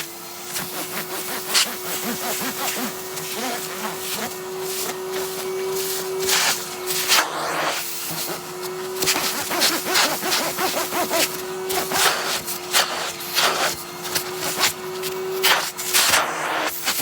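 Henry hoover vacuum cleaner running steadily, its motor hum dipping briefly in pitch a few times, with the nozzle rubbing and scraping over a padded winter jacket and its zips.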